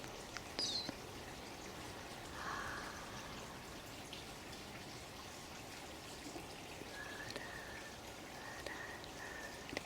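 Water running and trickling steadily, with a few short bird chirps and whistled notes over it.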